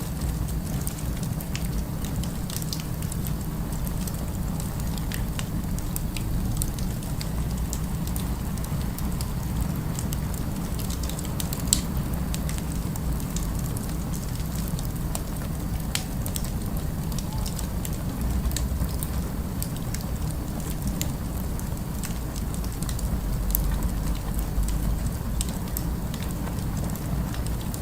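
Fire crackling, with scattered small pops and one louder pop about twelve seconds in, over a steady low rumble of city ambience.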